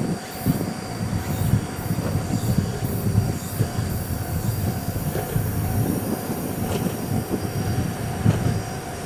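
Ohmi Railway electric train approaching from a distance: an uneven low rumble of wheels running on the rails.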